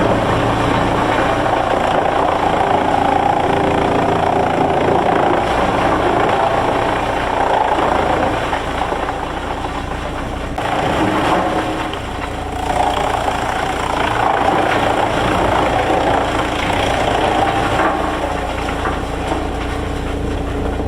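Heavy machinery running steadily, with a continuous engine drone and rumble that eases slightly about halfway through before picking up again.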